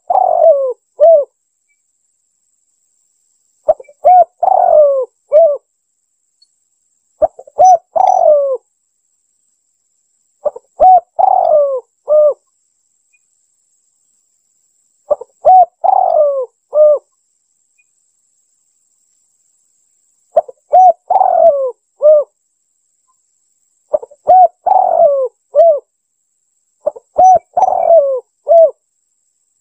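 Spotted dove (tekukur) cooing, played as a lure call: the same phrase of several coos repeats about every four seconds, with dead silence between phrases.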